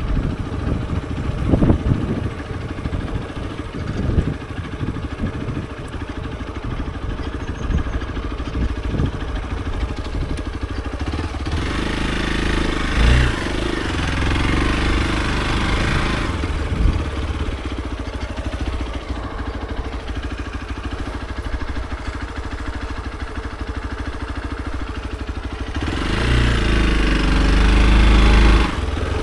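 Hero XPulse 200 4V's single-cylinder 200 cc engine running under way, mixed with wind rumble on the microphone. The engine pulls harder twice, about halfway through and again, loudest, near the end, then drops back suddenly.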